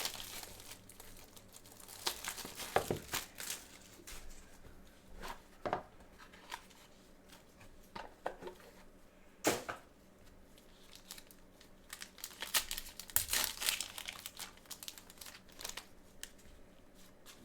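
Plastic wrapping crinkling and tearing and cardboard being handled as a sealed trading-card box is opened, in irregular crackly bursts with a sharp snap about halfway through.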